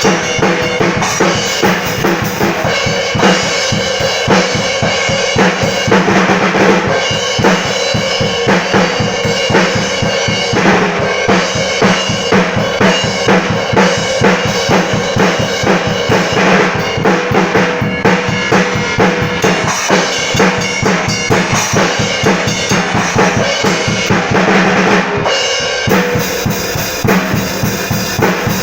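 Drum kit played without pause: fast, dense kick and snare strokes under ringing cymbals, the cymbals being tried out.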